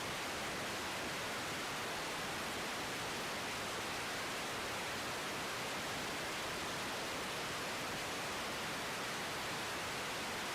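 Steady, even hiss of an air-traffic-control radio feed between transmissions.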